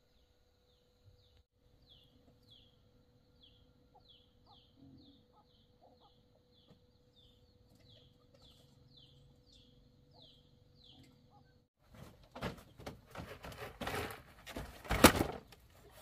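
A bird chirping over and over, faint short falling chirps at about two a second, over a steady faint hum. Near the end, loud irregular rustling and knocking takes over.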